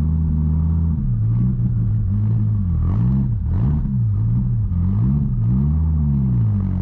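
Twin-turbo Dodge Viper V10 engine running while driving, its pitch dipping and rising several times in the middle as the revs change.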